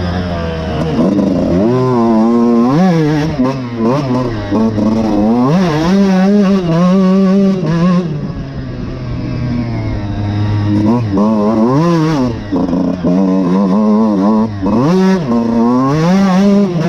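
Suzuki RM125 two-stroke single-cylinder motocross bike being ridden. The engine's pitch rises and falls again and again as it accelerates, shifts and backs off.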